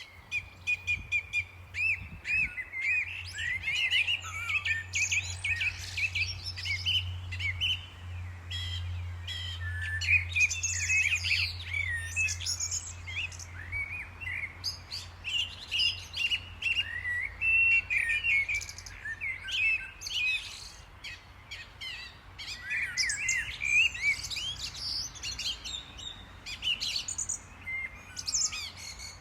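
Several small birds chirping and twittering in overlapping calls. A low, steady hum lies underneath and fades out about two-thirds of the way through.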